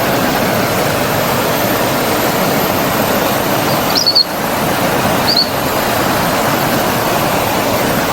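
A forest stream flowing steadily, with two short, high bird chirps about four and five seconds in.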